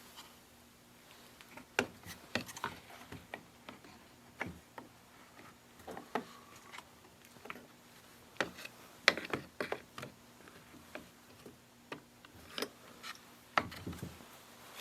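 Scattered clicks, taps and light knocks of hands and tools on the chainsaw's plastic housing as the fuel hose is refitted onto the carburetor's hose barb, with a few louder knocks among them.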